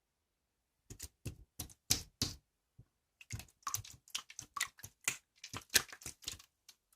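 Typing: a few separate key clicks about a second in, then a quicker run of clicks that goes on until near the end.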